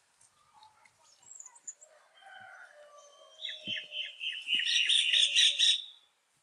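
Wild birds calling, faint and scattered at first; about halfway through one bird gives a loud, fast run of repeated high chirping notes that lasts about two seconds.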